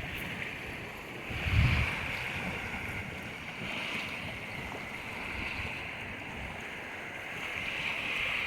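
Sea surf washing onto the shore in swells every few seconds, with wind on the microphone; a gust buffets the microphone about a second and a half in.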